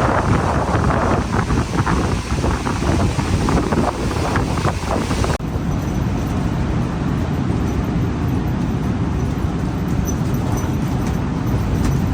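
Strong seaside wind buffeting the microphone, with short crackles. About five seconds in it changes suddenly to a lower, steadier rumble.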